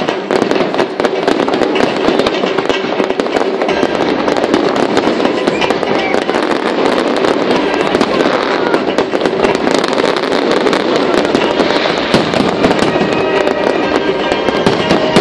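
Fireworks display: a dense, unbroken run of bangs and crackles from bursting aerial shells, with music playing underneath.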